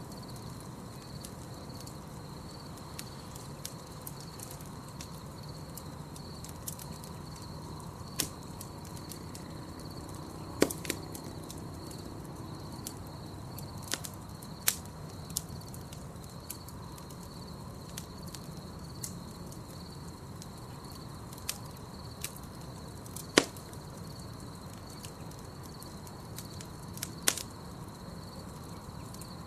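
Campfire burning with a low steady rush and sharp crackles and pops every few seconds, the loudest about two thirds of the way through. A steady high insect trill runs underneath.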